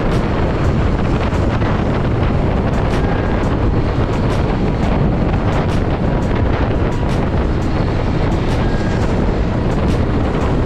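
Steady wind rush buffeting the microphone of a moving motorcycle, with the motorcycle's running noise underneath.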